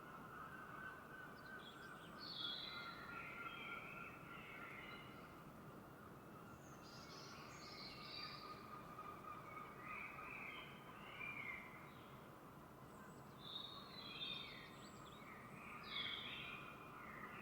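Several songbirds chirping and singing in a dawn chorus, short overlapping phrases scattered throughout, over a steady faint high hum.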